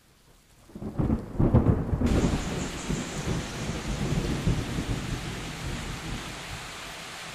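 A peal of thunder rumbles in about a second in, loudest over the next two seconds, then rolls away. Underneath, steady rain is falling on the trees.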